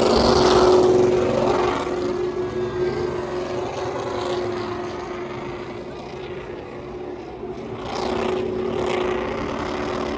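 Vehicle engine running with a steady drone, loud at first, fading after about two seconds and rising again near the end.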